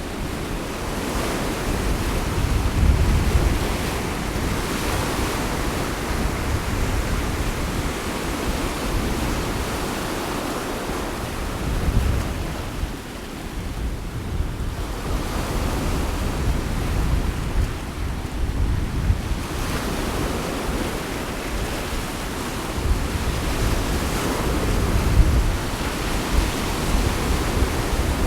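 Sea waves washing onto the shore, the surf swelling and fading every several seconds, with gusts of wind rumbling on the microphone.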